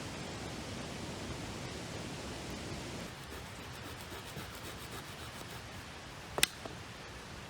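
Steady rushing background noise that gets a little softer about three seconds in, with a single sharp click near the end.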